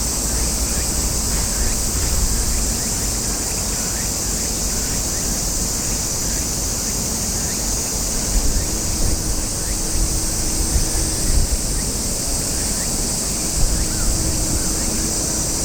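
Wind rumbling on the microphone in uneven gusts over a steady high-pitched hiss, with a few louder gusts in the second half.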